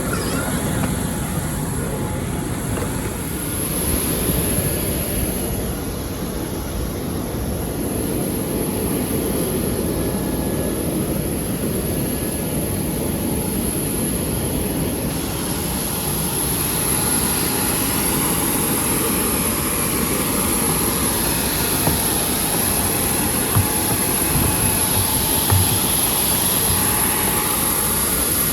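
Steady jet aircraft noise, a broad rushing hiss with a thin high-pitched whine over it, rising a little in level a few seconds in and again about halfway through.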